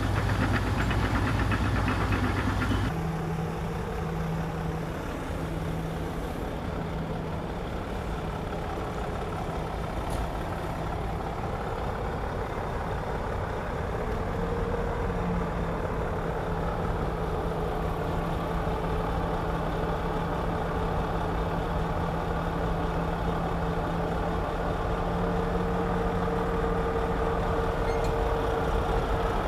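Heavy diesel engine of earthmoving machinery running steadily. It is loudest for the first three seconds, then eases to a lower, even running note that rises a little about halfway through.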